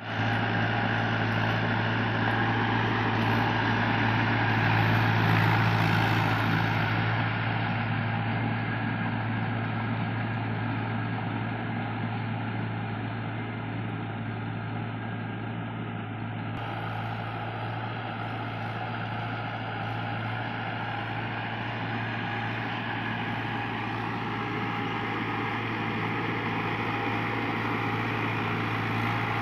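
Mahindra DI 575 tractor's diesel engine running steadily, a little louder about five seconds in.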